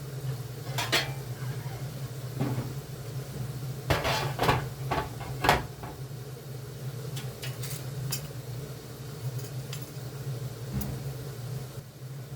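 Dishes and cutlery clinking and knocking in a series of short clatters, busiest and loudest about four to six seconds in, over a steady low hum.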